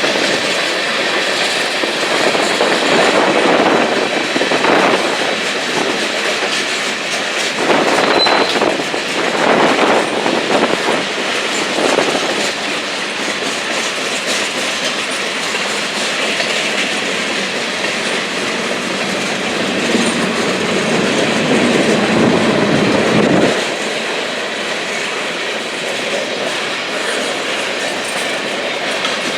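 Freight train cars rolling past, their wheels clicking over the rail joints in a steady clickety-clack. The sound thins out somewhat about three-quarters of the way through.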